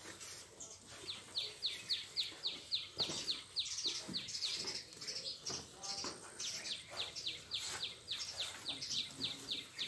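A bird calling in a fast, steady series of short, falling chirps, about four a second, with a short break around the middle.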